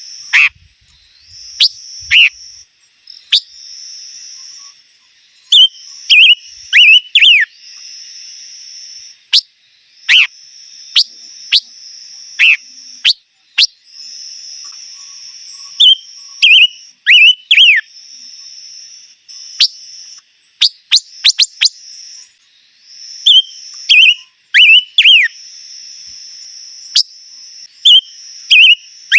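A songbird, the 'chim ngũ sắc' (five-coloured bird), calling with loud, sharp down-slurred chirps in quick clusters every second or two. Behind them runs a steady high, insect-like buzz that stops and restarts.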